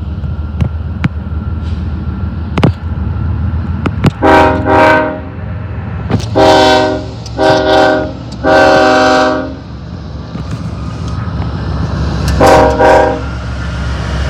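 Diesel locomotive air horn sounding a multi-note chord: four blasts in quick succession, the last the longest, then two short blasts near the end. Under it runs the steady low rumble of a freight train.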